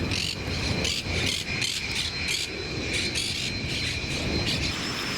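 Jet aircraft engines running with a steady high-pitched whine over a rushing noise. The whine shifts to a higher steady tone near the end.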